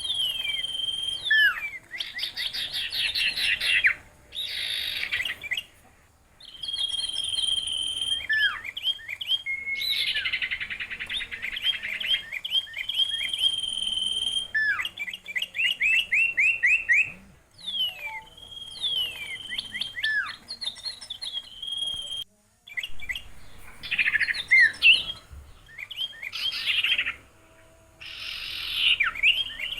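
A songbird singing in bursts of a few seconds: fast rattling trills, quick falling slurs and long high whistled notes, broken by short silences.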